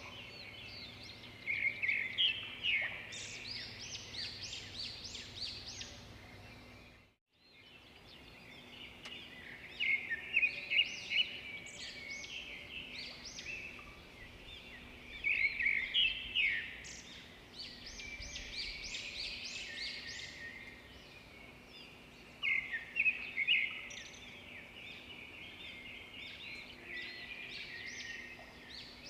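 Birds singing in repeated bouts of quick chirps and trills over a faint, steady background of gurgling water. The sound cuts out briefly about seven seconds in, then fades back.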